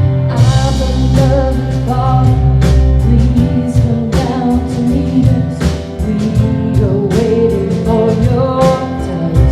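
Live contemporary worship band playing with a sung lead vocal over drum kit hits and a sustained bass.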